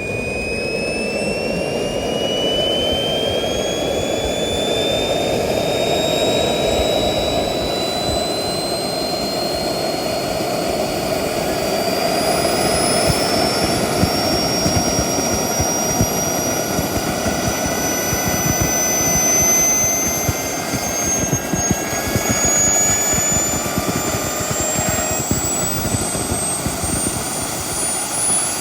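Small model turbine engine (TS45) spooling up during its start: a steady rushing run under a high whine that climbs smoothly and continuously in pitch.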